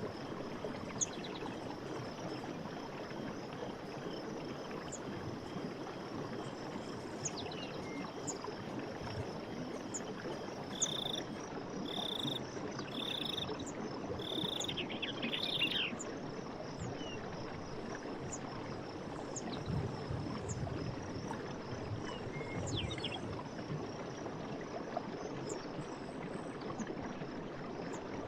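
Night forest ambience: insects trilling steadily, with a short high chirp about once a second, over a steady rushing hiss. About eleven seconds in, four short calls come in a row, each about a second apart.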